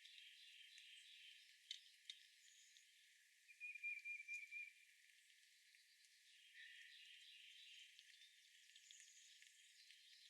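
Faint outdoor chirping of small birds and insects, all high-pitched, with a short rattling trill about three and a half seconds in and a few light clicks.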